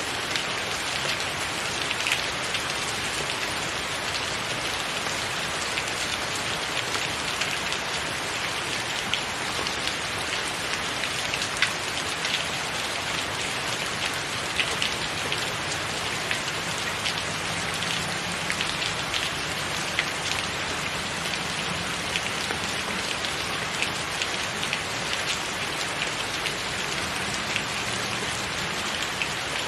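Steady rain falling on a tiled roof: an even hiss with many individual drops tapping sharply and irregularly throughout.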